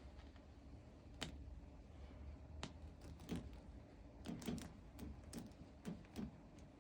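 About ten light, irregular clicks and taps, bunched together in the second half, over a low steady hum.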